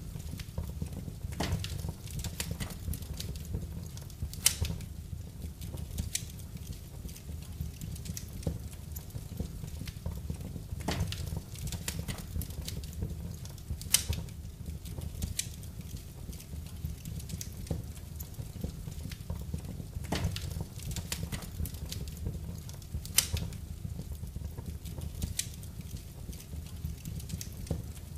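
Wood fire crackling in a fireplace: irregular small pops and ticks over a steady low rumble, with three sharper snaps standing out.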